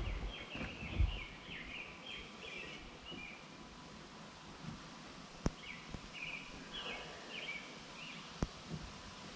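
A songbird singing in repeated short chirping phrases, in two runs with a pause between, over a faint steady outdoor background. A low thump comes about a second in, and sharp ticks come twice later on.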